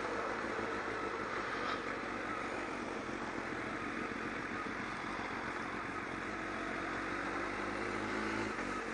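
Kawasaki ZX-12R's inline-four engine running steadily at low speed, heard under a constant rush of wind and road noise on the bike-mounted microphone.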